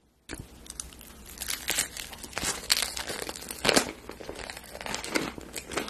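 Close-miked chewing of toasted cheese bread, a run of crisp crunches and crackling mouth noises with wet smacks. Near the end there are smacking sounds of fingers being licked.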